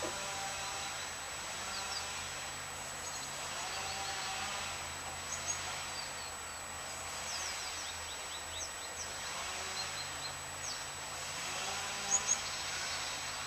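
Small birds chirping in short, high calls scattered throughout, with two sharper chirps near the end, over steady outdoor background noise.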